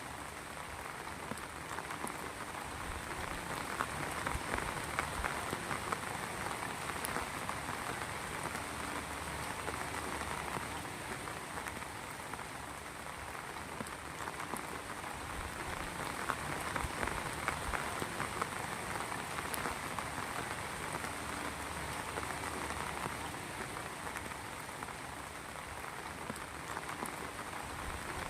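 Heavy rain falling steadily, a dense patter of drops hitting surfaces, swelling gently louder and softer.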